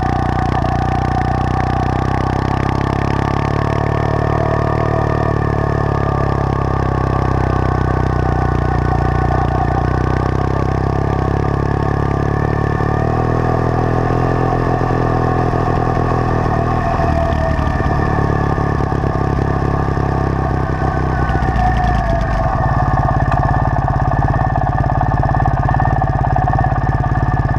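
Triumph Thruxton's parallel-twin engine running under way, recorded from the bike-mounted GoPro, its note shifting in pitch a few times.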